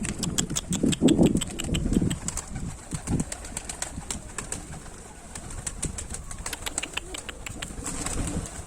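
Domestic pigeons cooing, loudest in the first two seconds, with many small sharp clicks and taps throughout.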